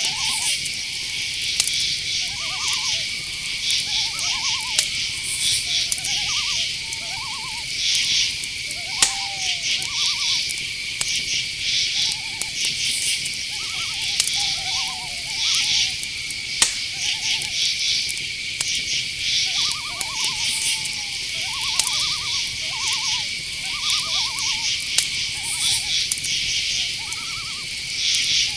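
Night insect chorus: crickets keep up a steady high trill while other insects buzz in rapid pulses above it, with many short, lower calls scattered underneath and a few sharp ticks.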